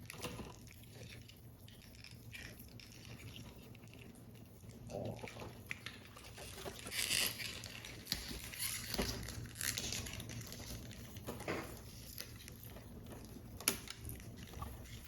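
Paper model pieces being handled: intermittent rustling and crinkling of paper with light taps, and one sharp click near the end.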